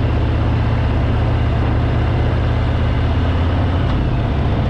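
Harley-Davidson Fat Boy's V-twin engine running steadily at cruising speed, under a constant rush of wind and road noise.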